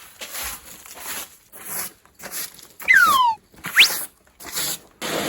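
Short bursts of rustling, then an animal's high squeal that falls in pitch over about half a second, and a brief sharp rising squeak about a second later.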